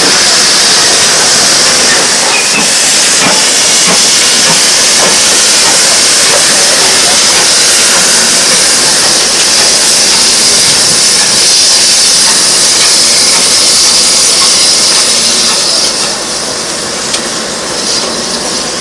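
Steam locomotive letting off steam: a loud, steady hiss that eases noticeably about sixteen seconds in.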